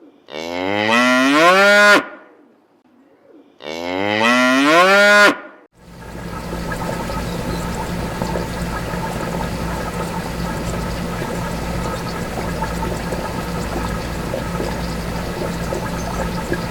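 A cow mooing twice, two long calls each about two seconds, the pitch rising and falling. From about six seconds in, a steady droning noise with a constant low hum takes over.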